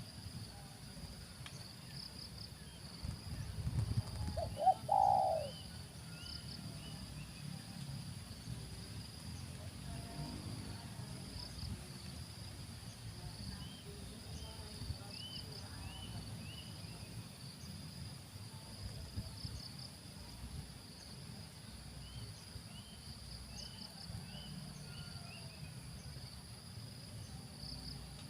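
Spotted dove cooing once, a short phrase about four to five seconds in, over a steady high insect drone with pulsing trills and faint repeated chirps from a small bird.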